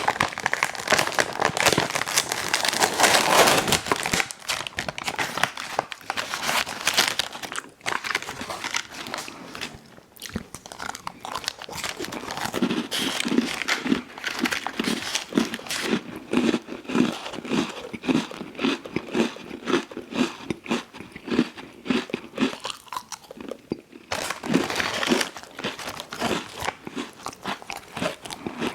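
Close-miked eating of an ice cream sandwich: loud crunching bites in the first few seconds, again a few seconds later and near the end, with steady rhythmic chewing at about two chews a second through the middle.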